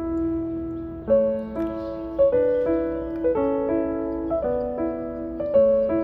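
Background piano music: a gentle melody of struck notes, a new note roughly every half second.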